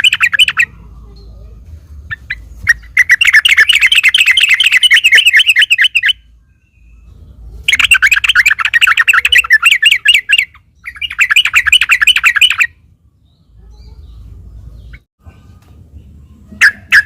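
Yellow-vented bulbul (trucuk) singing loud, rapid, chattering phrases in four bursts of a few seconds each, with short pauses between and a few brief notes near the end.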